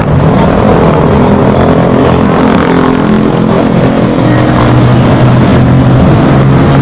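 Motorcycle engine running steadily at low road speed in traffic, with wind noise rushing over the microphone.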